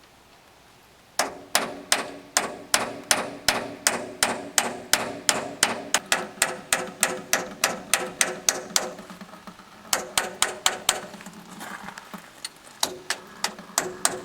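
Hammer striking steel in quick, steady blows, about two or three a second, each with a short metallic ring, on the hydraulic crane cylinder being dismantled. The blows start about a second in, slacken briefly twice, then resume.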